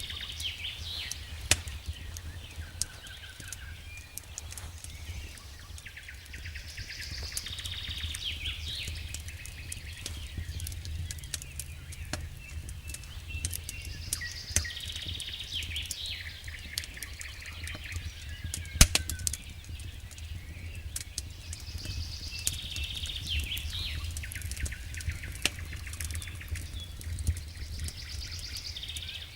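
Wood fire crackling in a fireplace, with scattered sharp pops (one louder pop past the middle) over a low steady rumble. High chirping calls come back about every seven to eight seconds.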